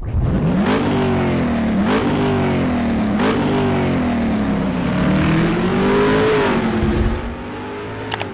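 Suzuki Hayabusa's inline-four engine revved hard three times in quick succession, each rev climbing sharply and easing off, then one longer, slower rise and fall in pitch before it settles lower near the end.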